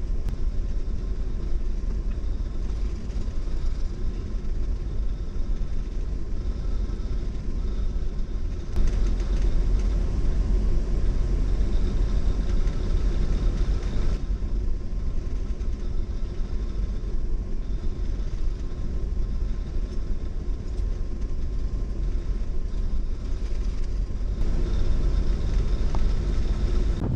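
Steady low rumble of an oil/chemical tanker under way, its engine and machinery heard inside the wheelhouse, with a faint steady hum above it.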